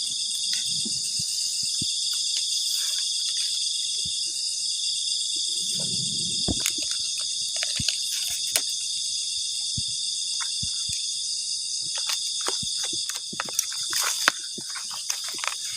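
A steady, shrill chorus of forest insects chirring without a break, with occasional light clicks of a spoon stirring in a pan.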